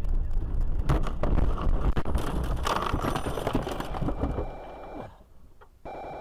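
Dashcam recording of a car on the move: steady road rumble with a cluster of knocks and clatters about a second in and again two to three seconds in. It fades out about five seconds in, and after a short gap steady music starts.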